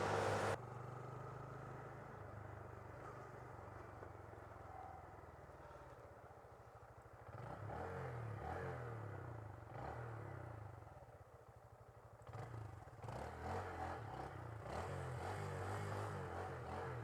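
A Honda Grom's 125cc single-cylinder engine running at low speed, fairly faint, its note dipping and picking up again about seven seconds in and once more about twelve seconds in as the throttle is eased off and opened.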